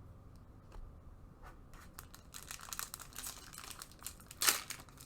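Plastic-foil trading card pack wrapper crinkling as it is handled and opened. The crackle thickens about two seconds in, with one louder crinkle near the end.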